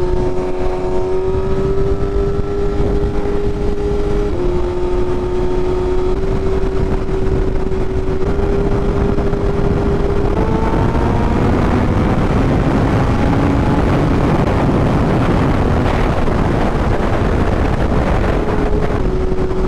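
BMW S1000RR's inline-four engine under way, heard from the rider's seat. The note climbs slowly and steps down about four seconds in and again around ten seconds as the gears change, while wind and road rush grow in the second half.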